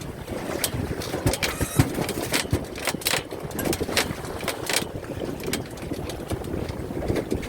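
Wind buffeting the microphone on a small boat, with water noise and irregular sharp knocks and clicks from handling on board.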